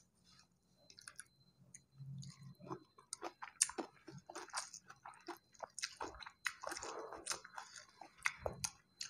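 A person eating rice and chicken-gizzard gulai by hand, chewing close to a lapel microphone: irregular wet smacks and mouth clicks, sparse at first and coming thicker from about three seconds in.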